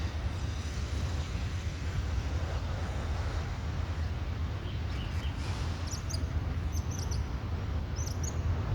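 Steady low rumble of wind buffeting the microphone over outdoor background noise, with a few short, high bird chirps about six and eight seconds in.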